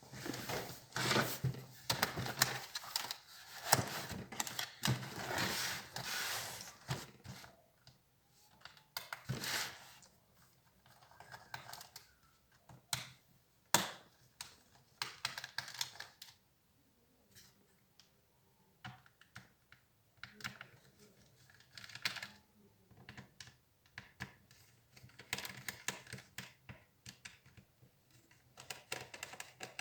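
Plastic clicks, taps and rattles from an HP Compaq 6910p laptop being handled and taken apart. Busy bursts at the start and again near the end, with a single sharp click a little before the middle.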